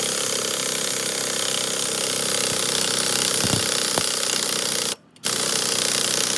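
A power tool running continuously with a rapid hammering rattle. It stops for a moment about five seconds in, then runs again.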